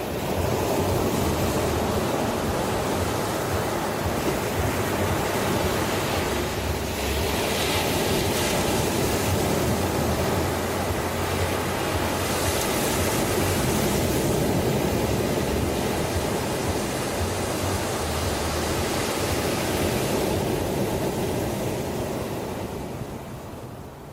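Ocean surf: a wave surges in sharply at the start and washes on as a long, steady rush of foam with hissy swells in the middle, then fades away near the end.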